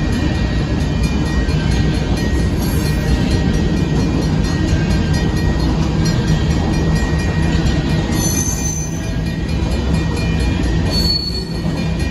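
Covered hopper cars of a freight grain train rolling past, with a steady loud rumble of steel wheels on the rails. A faint steady high whine runs through it, and two short high wheel squeals come about two-thirds of the way in and near the end.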